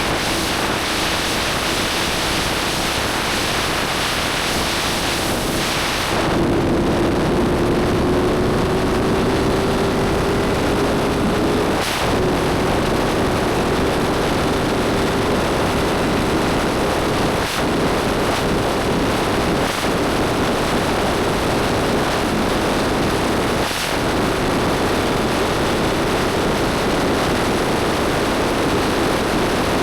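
Motorcycle engine running at road speed under heavy wind noise on the microphone. Its note holds steady for about six seconds, then climbs slowly as the bike accelerates, broken by a brief dip about twelve seconds in and three more later.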